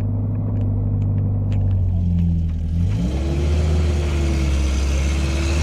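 Vehicle engine running steadily with a low hum; about three seconds in its pitch drops slightly as a fainter whine rises above it.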